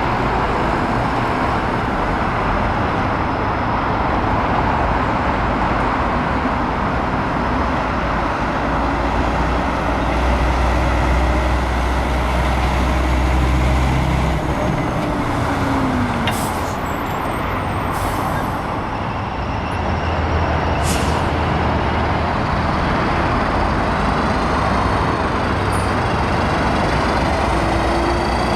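Heavy diesel trucks running and passing close by, with a deep engine rumble that swells and then falls away around halfway. A few short hisses of air brakes come a little past halfway.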